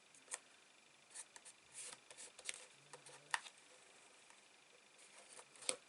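Faint rustling and a scattering of light clicks and taps from paper and card pieces being handled.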